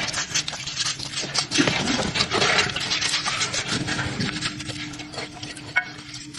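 Irregular scraping and rubbing with many light clinks and knocks, like hand work on metal parts. It fades toward the end, and a faint steady hum comes in about halfway through.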